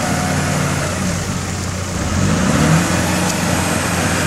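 Land Rover Discovery engine running at low revs as the 4x4 crawls down a rocky track, its note wavering and rising briefly about two seconds in.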